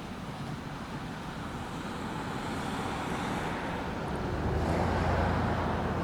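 A road vehicle passing, its engine and tyre noise swelling to a peak about five seconds in and then fading.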